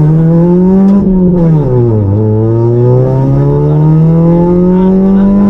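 Suzuki Swift rally car's engine heard from inside the cabin at full race pace: revs climb, fall away about a second and a half in as the driver comes off the throttle, then rise steadily again under hard acceleration.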